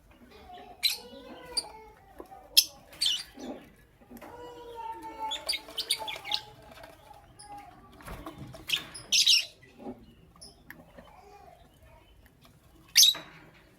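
Lovebirds chirping: short, sharp, shrill chirps at irregular intervals, with softer chattering between them.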